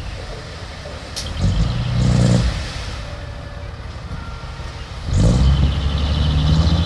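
Diesel engine of heavy earthmoving machinery working under load. It swells briefly about a second and a half in, then revs up hard at about five seconds and holds there, with metallic clicks and rattles.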